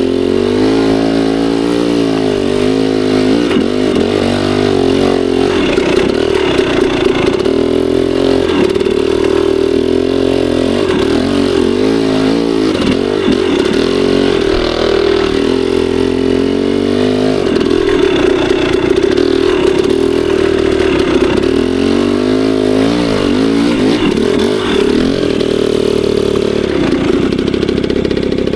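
Two-stroke dirt bike engine, a KTM 300 XC, revving up and down over and over, its pitch rising and falling with the throttle, holding steadier for a few seconds midway and again near the end.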